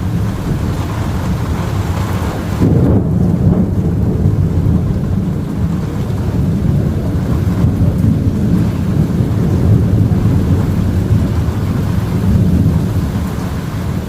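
Thunder rumbling continuously through a close thunderstorm, a deep unbroken rumble that swells about three seconds in.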